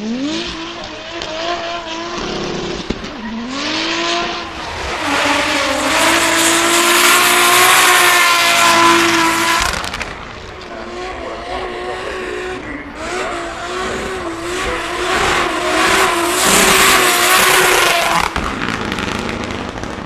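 Drift car engine revving up and down while the tyres squeal through a drift, loudest about five to ten seconds in and again around fifteen to eighteen seconds in.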